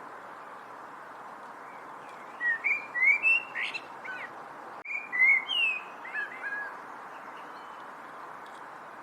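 A songbird singing two short phrases of quick, slurred chirping notes, about two and a half and five seconds in, over a steady background hiss.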